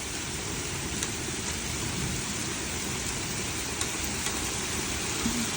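Heavy rain pouring down steadily in a thunderstorm, falling in wind-driven sheets.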